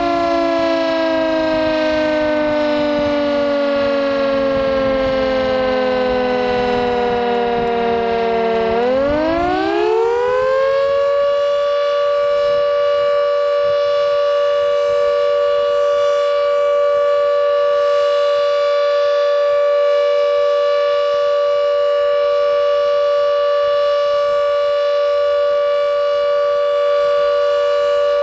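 Carter 1H electric siren sounding the flood warning signal: its tone slides down for about nine seconds during an interruption, then winds back up within about two seconds and holds steady. A continuous tone broken by interruptions, warning of danger of flooding.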